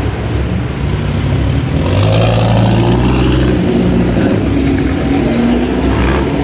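Twelve-cylinder sports car engine running at low revs as the car pulls in, its note swelling a little about two seconds in.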